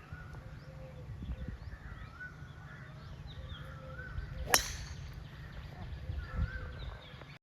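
Wild birds chirping and calling, several short twittering notes and warbling calls overlapping, over a low rumble. One sharp crack cuts through about four and a half seconds in.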